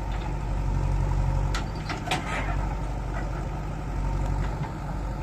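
JCB 3DX backhoe loader's diesel engine running steadily, with a couple of sharp clanks about two seconds in.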